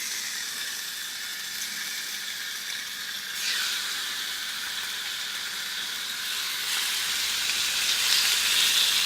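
Chicken thighs frying in oil in a hot pan, a steady sizzle that grows louder about a third of the way in and again near the end.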